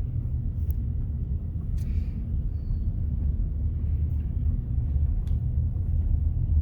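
Steady low rumble of a car driving, road and engine noise heard from inside the cabin, with a few faint clicks.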